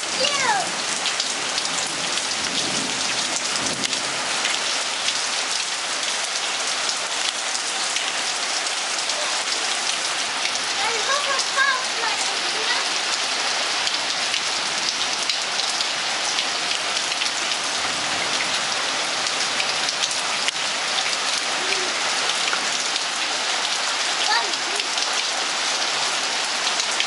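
Steady rain pouring down, a dense even hiss of drops hitting the ground and puddles.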